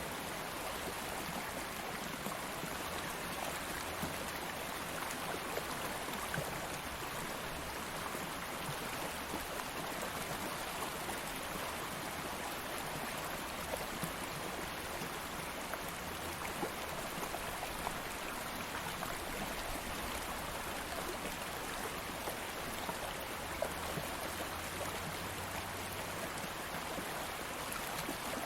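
Stream of water flowing steadily over rocks, a continuous rushing and burbling with small splashes here and there.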